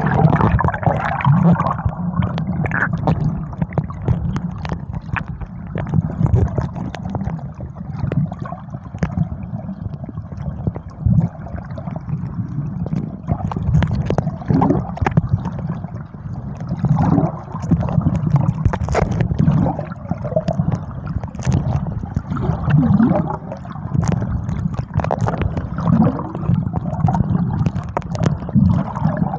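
Muffled gurgling and sloshing of sea water, with frequent small crackles, as a swimmer's camera moves through the water. It stays loud and uneven throughout.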